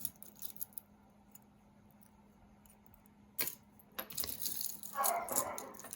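Pieces of costume jewelry clinking and rattling against each other as they are handled and picked through in a box: a few sharp clicks, then denser jangling in the last couple of seconds.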